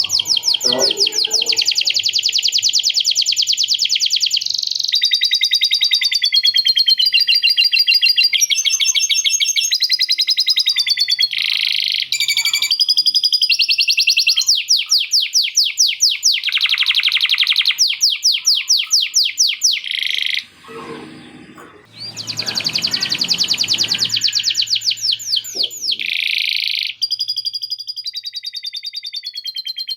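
Male canary singing a long run of rapid trills and rolls, switching phrases every second or two, with a short break about two-thirds of the way through. The song is a lovebird-fill (isian lovebird) type, with the canary working in lovebird-style chattering phrases.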